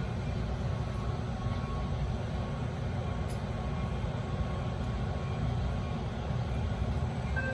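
Steady low rumble of a diesel commuter train's locomotive running.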